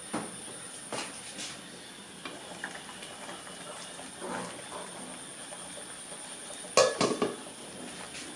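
Scattered clicks and light clatter of objects being handled, with a louder cluster of knocks about seven seconds in, over a steady high-pitched hiss.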